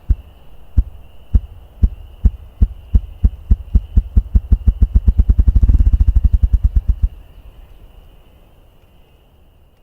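Ruffed grouse drumming: deep, low wing-beat thumps, each one beat of the wings, start slowly and speed up into a rapid whirring roll that stops about seven seconds in.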